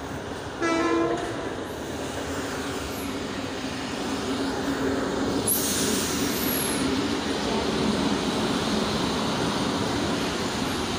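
Abu Qir commuter train arriving at a platform: its diesel locomotive gives one short horn blast about half a second in. Then the coaches roll past with a steady, building rumble, and a brief high-pitched wheel squeal comes near the middle.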